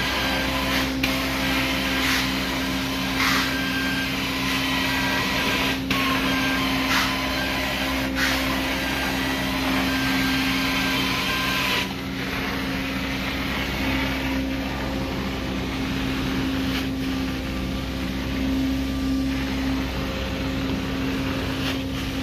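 Carpet-cleaning extraction wand drawing air and water up its vacuum hose: a steady, loud suction drone with short sharp changes every second or two as the wand is stroked across the carpet. The hiss eases about halfway through, in line with the wand's dry, suction-only passes.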